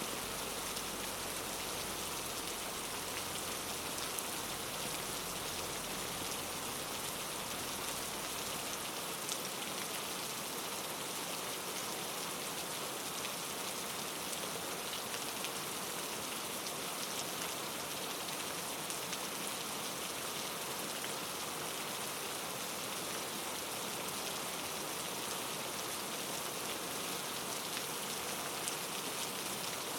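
Steady, even rainfall: a dense hiss of rain with scattered individual drops ticking. A faint low rumble underneath fades out about nine seconds in.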